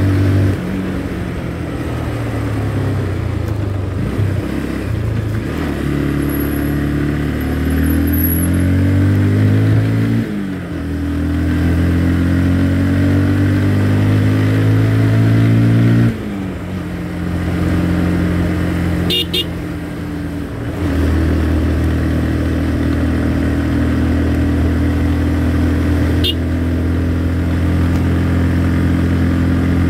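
Motorcycle engine under way, its pitch climbing with speed and dropping sharply at gear changes about ten and sixteen seconds in, then running steadily.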